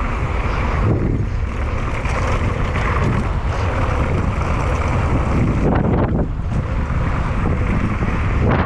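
Loud, steady wind noise buffeting the microphone as a mountain bike descends a dirt bike-park trail at speed, with a low rumble underneath.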